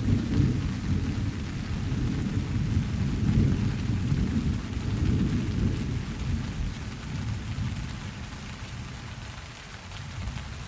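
Thunder rumbling low over steady rain, the rolling rumble dying away over the last few seconds while the rain goes on.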